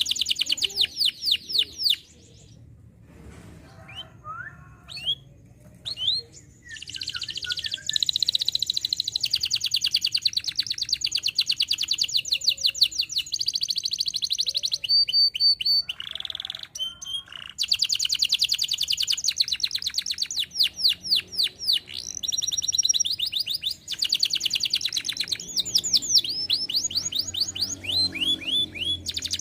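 Domestic canary singing in long rapid trills of repeated high sweeping notes. The song pauses for a few seconds near the start, then resumes with brief breaks between phrases.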